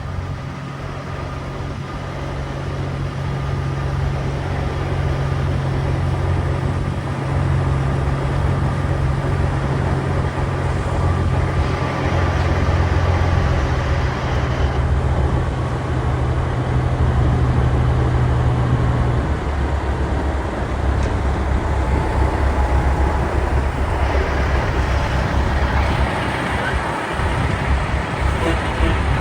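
Semi-truck diesel engines running: a loud, steady, deep drone. The strongest low tone stops about two-thirds of the way through, and a lower rumble carries on.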